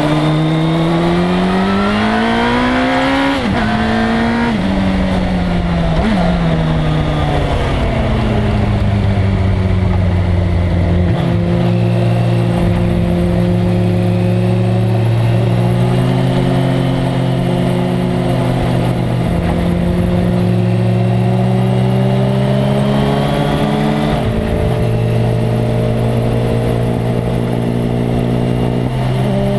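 1997 Suzuki GSX-R1100's inline-four engine under hard acceleration. It climbs in pitch with two quick upshifts in the first few seconds, then falls away and holds a steady pitch for a long stretch. Near the end it rises again with two more upshifts.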